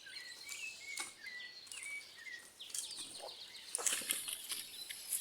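Birds chirping: a run of short repeated chirps through the first half, then higher-pitched calls near the end, with a couple of faint clicks.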